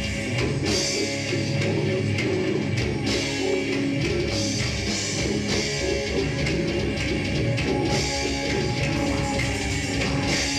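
Live heavy metal band playing: electric guitars over a drum kit, with the low end of the mix filling in about four seconds in.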